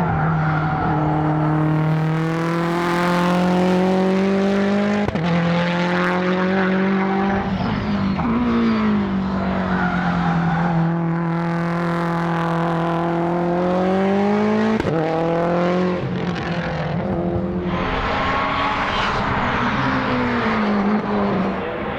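Race car engine at full throttle, revving up through the gears, with the pitch climbing and snapping down at each gear change, clearly around five and fifteen seconds in.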